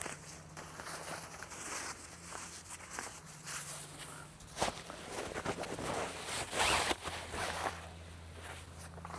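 Footsteps and rustling of someone moving about on the ground, irregular scuffs with a louder burst about seven seconds in.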